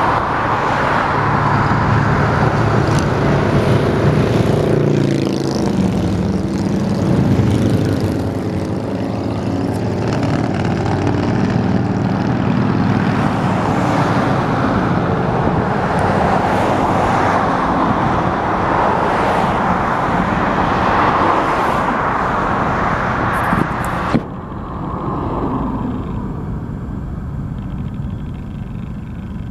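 Freight train of garbage-container cars rolling past: a steady rumble and rush of wheels on rail under a low drone. The higher hiss drops away suddenly near the end.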